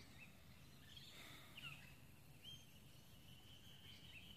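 Near silence: faint outdoor ambience with a few soft, short bird chirps, and a faint steady high note that comes in about halfway through.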